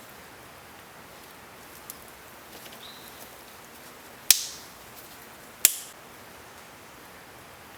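Two sharp clicks about a second and a half apart, over a steady faint hiss.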